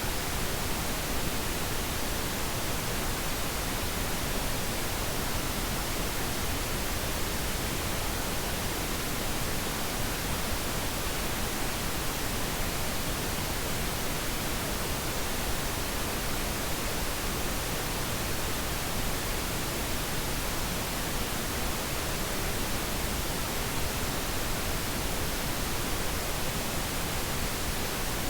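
Pink noise: a steady, even hiss spread across the whole range, generated as a sleep aid for a baby.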